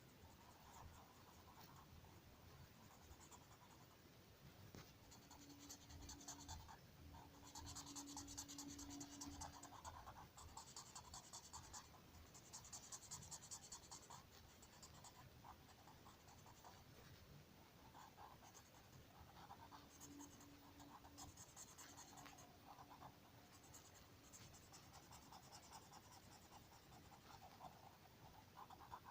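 Faint scratching of a drawing tool on paper, coming in several bursts of strokes.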